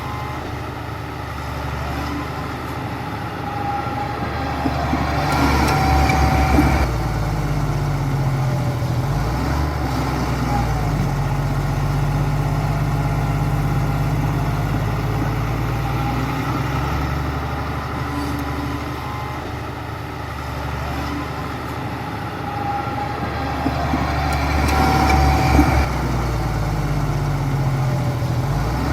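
Heavy diesel engine of a construction machine running steadily. It gets louder and fuller twice, about five seconds in and again near the end, as if pulling under load.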